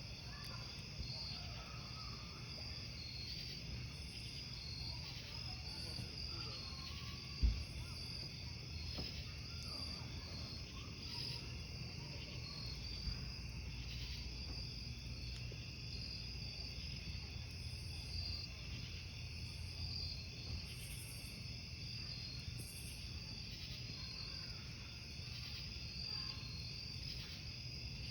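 Crickets chirping steadily in a dense chorus over the low rumble of a wood campfire, with one sharp pop from the burning wood about seven seconds in.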